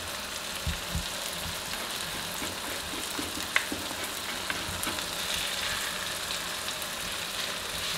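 Onion-tomato masala frying in oil in a wok, sizzling steadily, with a few faint light knocks.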